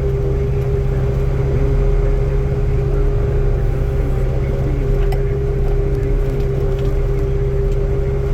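Skid steer engine running steadily under load while plowing snow, a constant drone with a steady tone over it and small wavering rises and falls in pitch.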